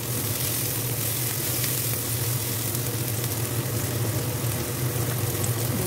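Onion slices and sliced meatballs sizzling as they fry in oil in a nonstick frying pan, with a steady low hum underneath.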